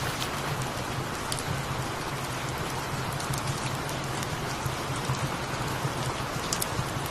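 Steady rain, with a low steady hum underneath and a few faint clicks.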